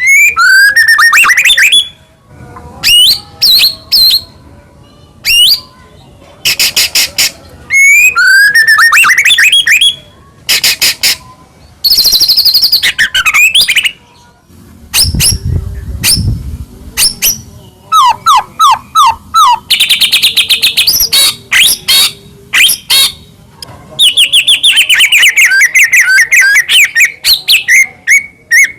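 White-rumped shama singing a loud, varied song of rapid whistled phrases, sweeping notes, trills and harsh rattles, separated by short pauses. A brief low rumble comes about halfway through.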